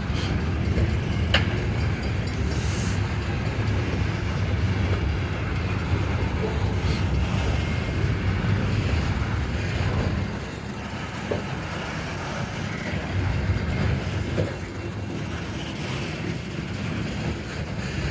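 Loaded coal hopper cars rolling past on the rails, a steady low rumble of wheels and trucks, with a brief sharp click and a short squeal about a second in and a few faint clicks later. The rumble eases slightly past the middle.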